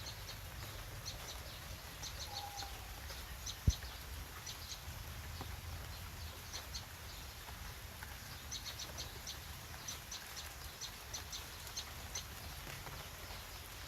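Birds chirping: many short, high chirps in quick clusters of two to four, over a steady low rumble. A single sharp click just under four seconds in.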